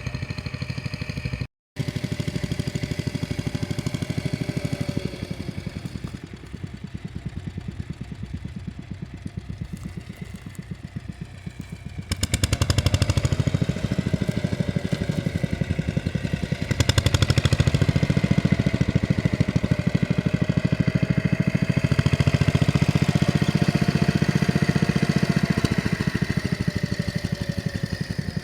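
Tractor engine running with a steady firing beat, its pitch wandering slightly. It grows louder nearly halfway through and again a few seconds later. The sound drops out very briefly near the start.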